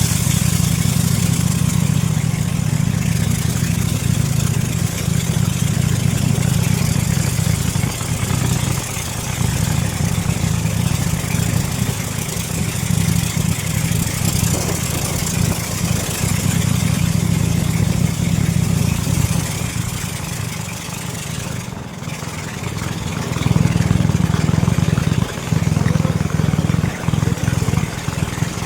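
Speedboat's outboard motor running steadily under a spread of hiss. It eases off for a couple of seconds about two-thirds of the way through, then comes back louder.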